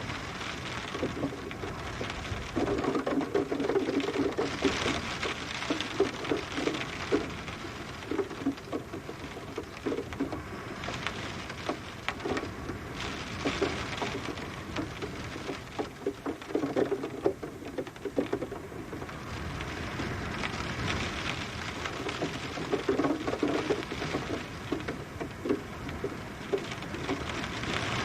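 Steady rain with dense pattering drops that thicken into heavier spells every few seconds.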